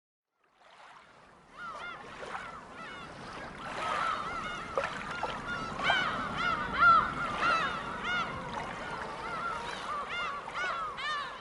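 A white noise sleep machine's speaker playing a recorded flock of birds, many overlapping honking calls, fading in about a second in and building up.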